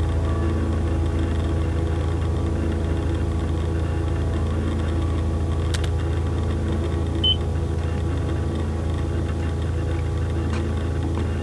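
A steady low droning hum made of several level tones, with a sharp click about six seconds in and a single short high beep a little over a second later.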